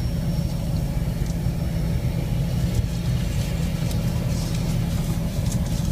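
Steady low vehicle rumble at an even level, with no distinct events.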